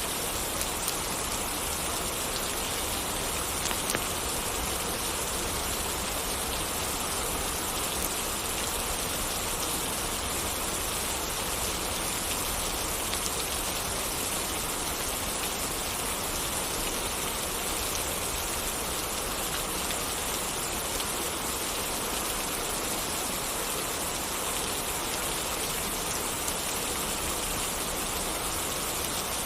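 Steady rain falling, an even hiss with a few faint small ticks scattered through it.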